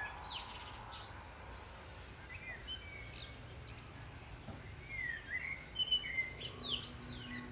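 Birds chirping and calling: many short whistled chirps and quick sweeping calls, busiest near the start and again in the last few seconds, with a lull in the middle. A low steady music note comes in near the end.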